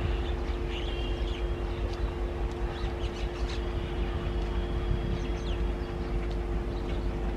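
Indian Railways passenger train rolling away, a steady low rumble with a constant hum under it. Birds chirp and whistle over it.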